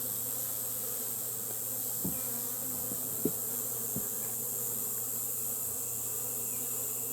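Honey bees buzzing in a steady hum, with a few short taps about two, three and four seconds in.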